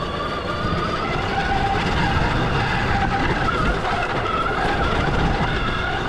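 Stark Varg EX electric dirt bike's motor whining, its pitch rising and falling with the throttle over a steady low rumble.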